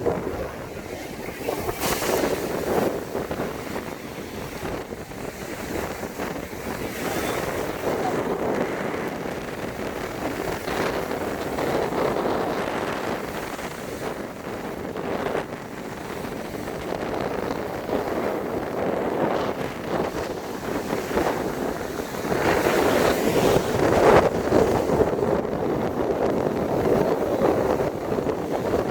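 Wind buffeting the microphone outdoors: an uneven rushing noise that swells and falls, growing louder for the last several seconds.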